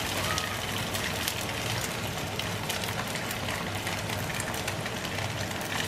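Tofu slabs sizzling in hot oil in a frying pan: a steady sizzle with fine crackling spits of oil.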